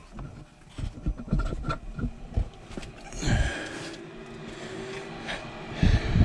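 Clicks and knocks of handling at a furnace control board as R and W are jumped. About three seconds in, a steady motor hum starts: the draft inducer starting on the call for heat.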